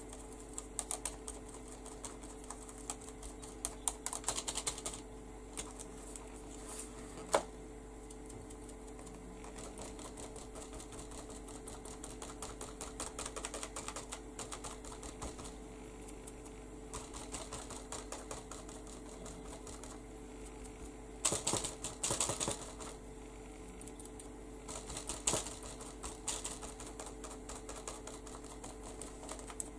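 Makeup sponge dabbing ink through a stencil onto paper: quick runs of small taps in spells, with louder bursts of dabbing about 21 and 25 seconds in and one sharper knock about 7 seconds in. A steady hum runs underneath.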